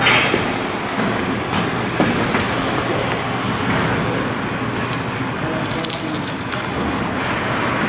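Shipyard work noise from steel block assembly: a steady rough din with scattered sharp clicks and knocks throughout.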